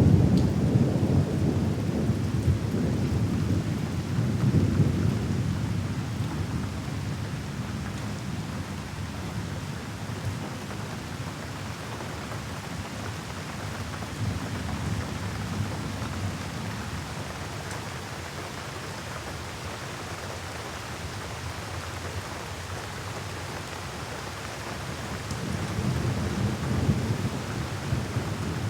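Steady rain falling with rolling thunder. A deep rumble is loud at the start and dies away over the first several seconds, and another rumble builds near the end.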